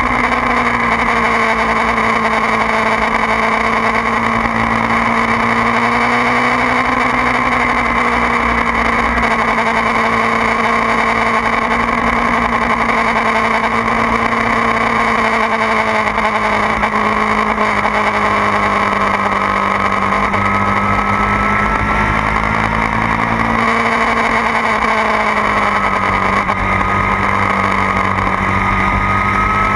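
2009 Kawasaki ZX-6R's 599 cc inline-four engine running hard at track speed, its pitch wavering slightly with throttle and dipping briefly about twenty-five seconds in before holding steady again.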